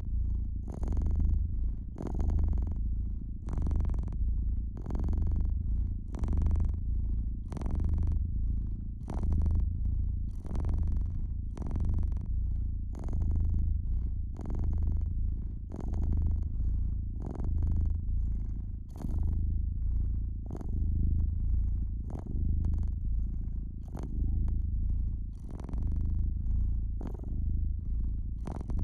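Domestic cat purring steadily, a low rumble that swells and fades in a regular rhythm about every second and a half as it breathes in and out.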